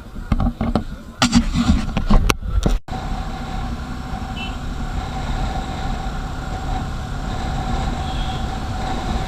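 Several sharp knocks and clatter, then, after a sudden cut, a vehicle's steady low engine and road rumble with a steady hum.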